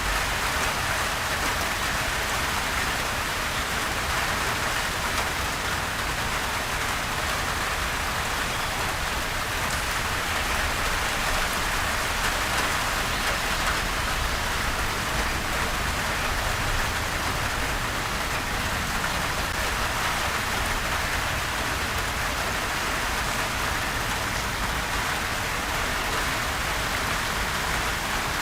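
Steady rain falling and pattering on surfaces: an even, unbroken hiss of drops with no thunder.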